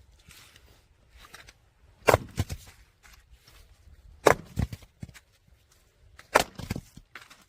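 Firewood being split: three sharp strikes about two seconds apart, each followed by a few quick cracks as the wood splits and the pieces fall.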